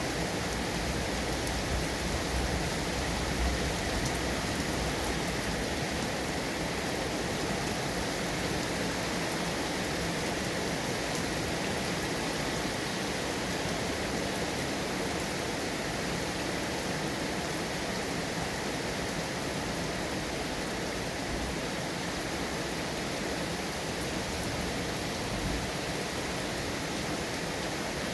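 Steady, dense rainfall, an even hiss with no thunder.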